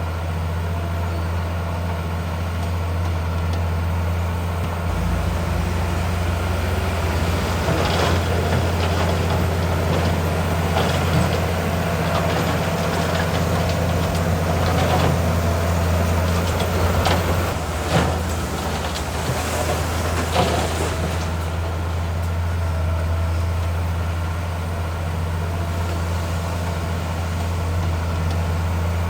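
Heavy diesel earthmoving machinery running steadily with a deep drone. From about 8 to 21 seconds in come clanks and rattles of stone, the sharpest near 18 seconds.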